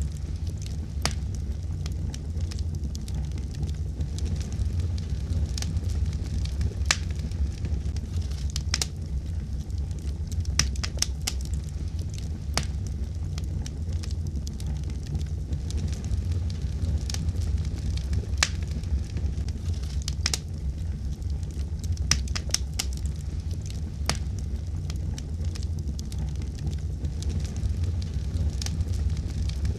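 Fire in a fireplace crackling: irregular sharp pops and snaps, several a second at times, over a steady low rumble.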